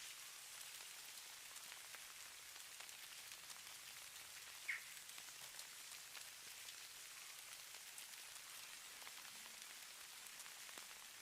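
Faint, steady patter of light falling precipitation, sold as falling snow: a soft high hiss dotted with many tiny ticks. One brief, sharper squeak stands out about four and a half seconds in.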